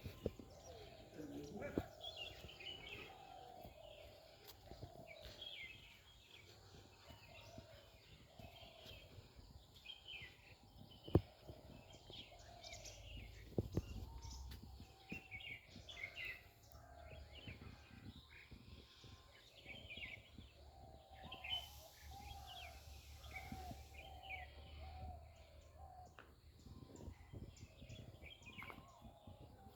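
Small birds chirping in short, repeated calls over faint outdoor background noise, with a couple of sharp clicks about a third of the way through.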